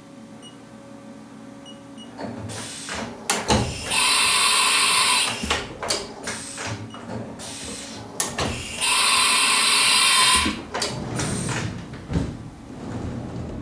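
Haas VF-3SS vertical machining center running through its cycle. There is a low hum, then clunks and clicks, and two loud hissing blasts of about a second and a half each, about four and a half seconds apart.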